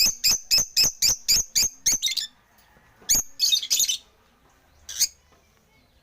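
African lovebirds giving shrill, sharp chirps: a rapid run of about four calls a second for the first two seconds, then a short cluster about three seconds in and a single call near five seconds.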